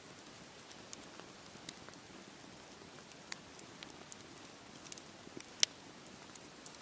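Campfire crackling, with scattered sharp pops, the loudest a little after halfway, over a steady low wash of sea waves.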